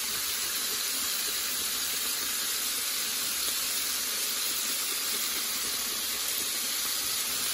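Shrimp and tomatoes sizzling steadily in a hot frying pan, a continuous even hiss of steam and frying.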